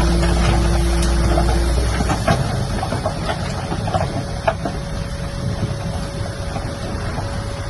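Heavy earthmoving machine's engine running, its low rumble dropping off about two seconds in, followed by scattered clanks and knocks of metal and stone.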